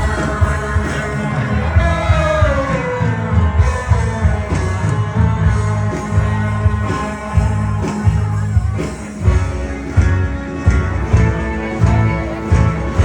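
Live gospel worship music: a band with drums, bass and guitar playing for a women's choir, with a steady beat; a melody line slides down in pitch about two seconds in.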